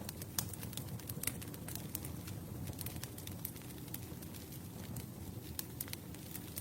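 Campfire crackling: a steady low rush from the burning wood, with many sharp irregular pops and snaps, two louder pops within the first second and a half.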